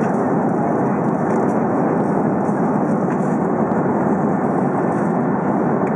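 Steady airliner cabin noise in flight: the even rush of the engines and airflow heard from inside the passenger cabin.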